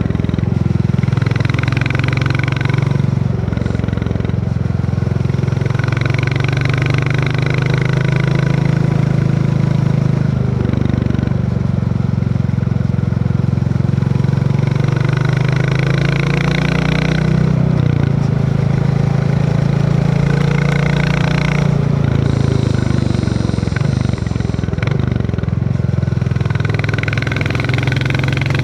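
Royal Enfield Classic 350's single-cylinder engine running steadily under way, its pitch shifting a little now and then with the throttle, with a hiss that swells and fades every few seconds.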